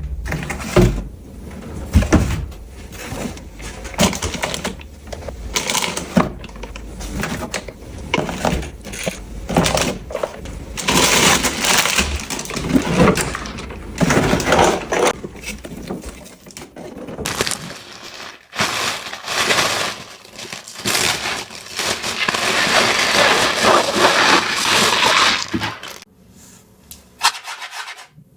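Toy packaging being handled and opened up close: a run of clicks, scrapes and crackles, with a denser stretch of crinkling a little over twenty seconds in.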